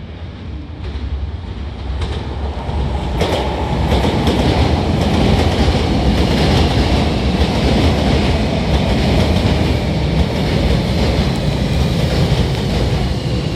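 Hankyu 9000 series electric train pulling out and running past close by, growing louder over the first four seconds and then holding a steady loud running noise of wheels on rail, with a faint high tone on top.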